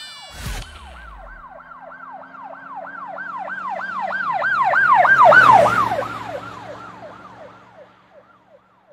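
Emergency vehicle siren wailing in quick up-and-down sweeps, about three a second, growing louder to a peak about five and a half seconds in, then fading away as if passing. A short low thump about half a second in.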